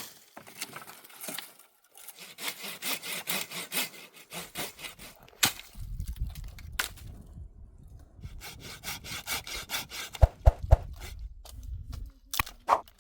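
Hand saw cutting through firewood, rapid back-and-forth strokes at about four a second, pausing and resuming, with a few sharper knocks near the end.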